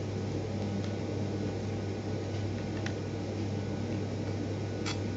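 A steady low hum under background hiss, with three faint ticks about two seconds apart.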